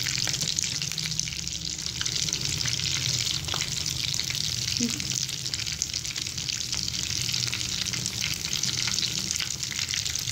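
Besan-battered potato and cheese cutlets sizzling and crackling steadily in hot cooking oil in a pan.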